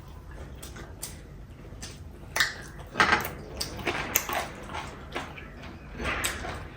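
Eating sounds: short clicks and wet smacks of chewing, with light knocks of food and utensils on a plate, starting about two seconds in.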